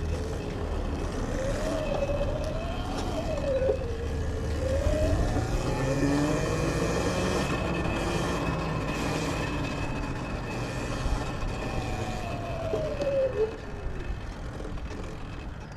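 Sur-Ron electric dirt bike's motor whining, its pitch rising and falling with speed as the throttle is worked, over steady wind and tyre noise.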